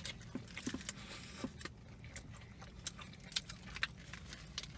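Two people chewing a chicken burrito and shrimp tacos close to the microphone, with many small scattered mouth clicks.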